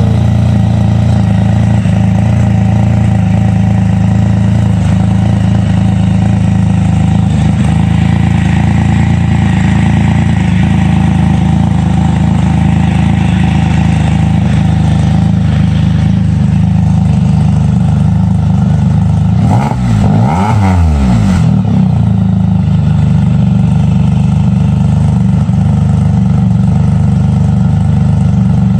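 Can-Am Spyder F3's Rotax 1330 inline three-cylinder engine idling steadily through an aftermarket catless Spyderman Turbo Z exhaust, with one quick rev up and back down about twenty seconds in.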